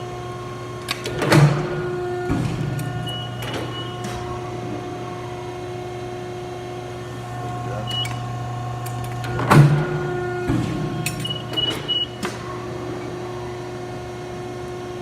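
Wysong 10-foot metal shear running with its motor humming steadily. It makes two dry-cut strokes with no metal in it, about eight seconds apart. Each stroke is a loud clunk followed by about a second of steady whine, with short high beeps and small clicks in between.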